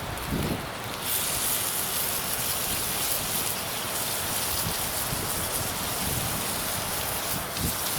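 Beef searing in beef tallow over a campfire: a steady sizzle that grows louder and brighter about a second in, with a couple of short low thumps.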